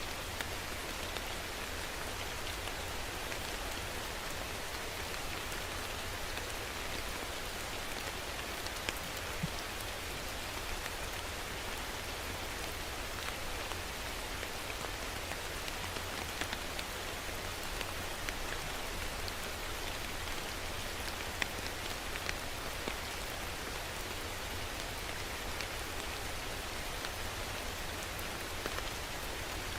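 Steady rain falling, an even hiss with the small ticks of individual drops landing on a surface.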